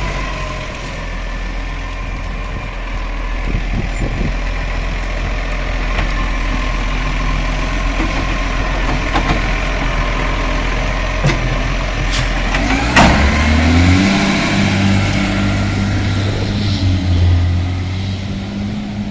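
Garbage truck's diesel engine running steadily, with one sharp bang about 13 seconds in, then the engine pitch rises as it speeds up.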